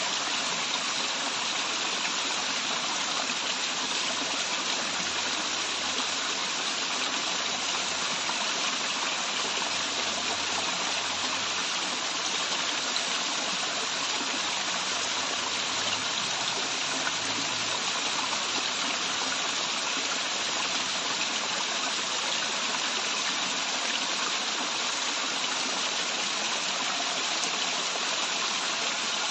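Waterfall and the stream below it running, a steady, even rush of water.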